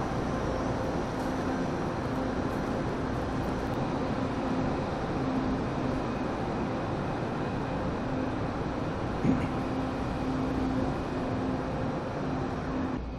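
Steady drone of a train standing at a station platform, a low hum running through it, with one brief knock about nine seconds in.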